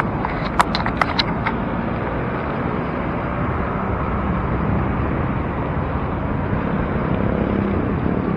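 Steady wind and road noise on the camera while riding a bicycle, with a few sharp clicks in the first second and a half.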